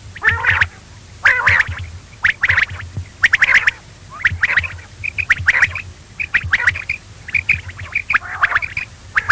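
Quail (bater) calls repeated at roughly one per second, each a short, harsh burst, with a low steady hum underneath.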